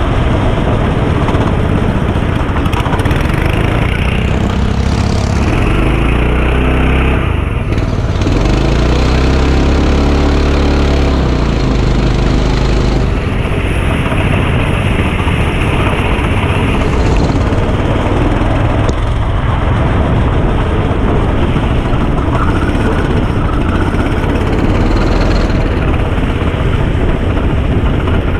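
Go-kart engine running at speed, its pitch climbing and falling as it revs up and lifts off, under a loud steady rushing noise from the onboard camera microphone.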